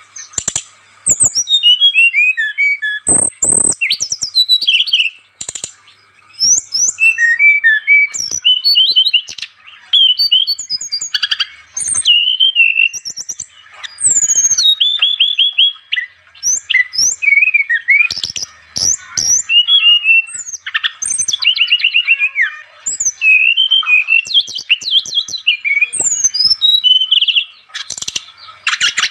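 Brown-chested jungle flycatcher (SRDC) singing energetically: rapid, varied bursts of high chirps, trills and sweeping whistles with short pauses between phrases, and a few short knocks a few seconds in.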